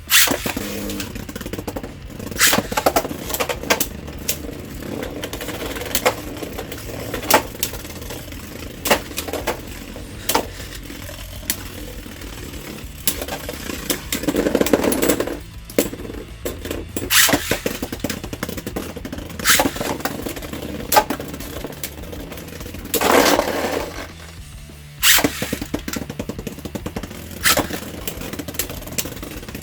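Two Beyblade Burst spinning tops whirring in a plastic stadium, clashing again and again with sharp clicks and knocks, with a few longer grinding scrapes.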